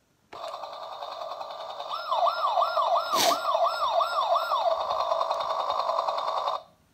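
Toy helicopter's electronic sound effects playing through its small speaker: a buzzy, fluttering rotor-like noise, joined about two seconds in by a wailing siren of about seven quick rising-and-falling sweeps, with a sharp click about three seconds in; it cuts off suddenly near the end.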